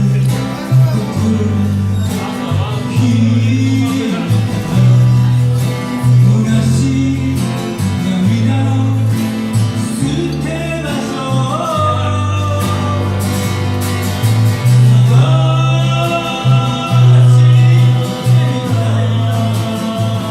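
Live music: guitar with a strong, steady bass line, and a voice singing the melody through parts of it.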